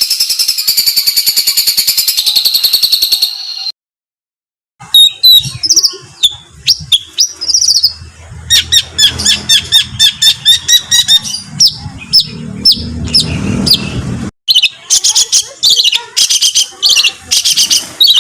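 Songbird masteran recordings spliced one after another: fast, harsh bursts of repeated high notes, with a brief dead-silent gap about four seconds in and an abrupt cut to another bird about fourteen seconds in. A low rumble sits under the middle stretch.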